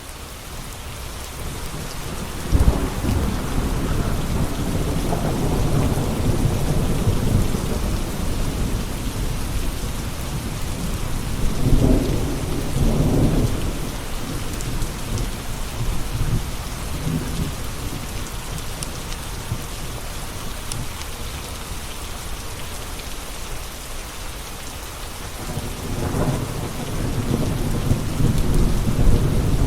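Steady heavy rain, swelling in over the first couple of seconds, with rolls of thunder: a long low rumble a few seconds in, a shorter one around the middle, and another near the end.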